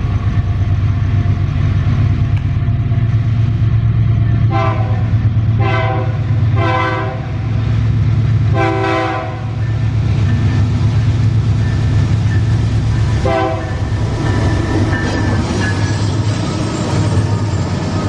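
Wabtec AC44i diesel-electric locomotive hauling a loaded iron-ore train, its engine a deep steady rumble. Its multi-note horn sounds five blasts: three short ones, then a longer one, then a last short one a few seconds later.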